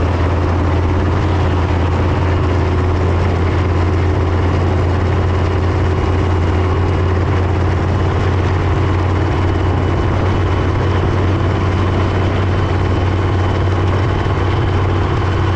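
Leopard 1 main battle tank's MTU MB 838 V10 multi-fuel diesel engine running steadily at constant speed, a loud low drone with no change in pitch.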